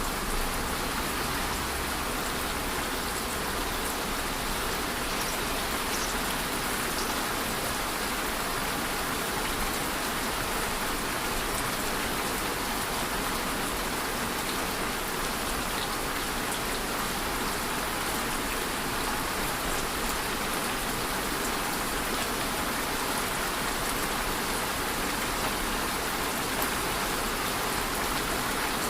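Steady rain falling on a surface, a constant hiss with faint scattered drop ticks.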